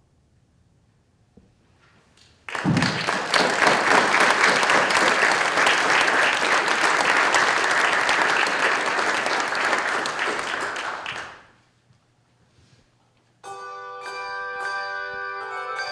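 Audience applauding for about nine seconds, then fading out. Near the end, music starts with ringing, bell-like tuned notes from the handbells or steel drums.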